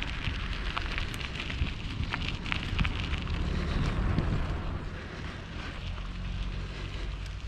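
Wind noise on the microphone over the low rumble of a bicycle riding along, with scattered small clicks and rattles.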